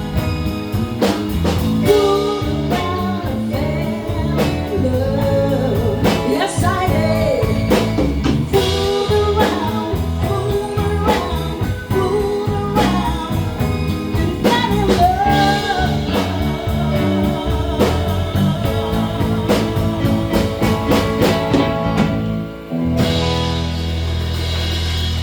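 Live band playing a blues-rock song with a singer, electric guitar and drum kit. Near the end the singing stops, there is a brief break, and the band holds one steady sustained chord.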